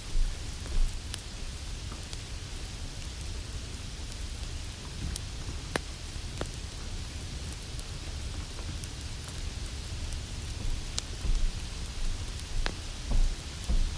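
Steady rain hiss with low rumbles of thunder swelling near the end, and scattered sharp crackling pops throughout.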